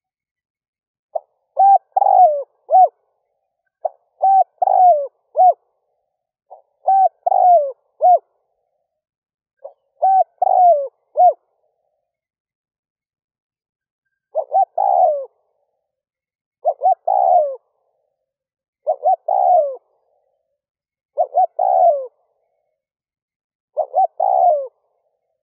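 Spotted dove cooing: short phrases of three or four hoarse notes repeated about every two and a half seconds, with a pause of about three seconds midway.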